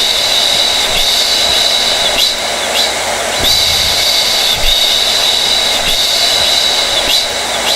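Hair dryer running steadily: a loud rushing of air with a high whistle over it that drops out for a moment roughly every second.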